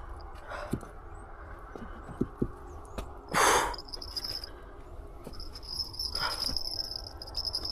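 Insects trilling steadily at a high pitch, breaking off and starting again. About three and a half seconds in there is a short, loud rush of noise, and a fainter one near six seconds.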